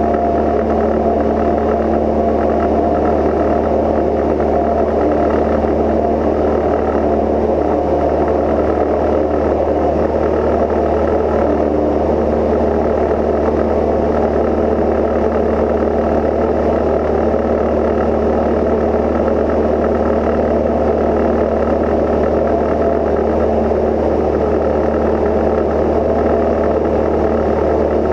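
Steady drone of a Cozy Mk IV's pusher piston engine and propeller in cruise flight, even and unchanging.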